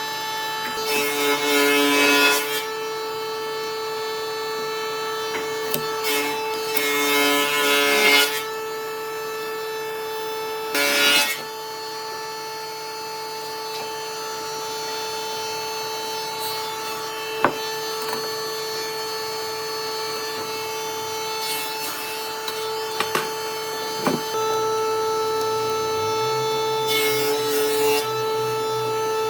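A woodworking power tool runs with a steady whine, and a power saw or similar cuts into wood in about five loud passes of a second or two each.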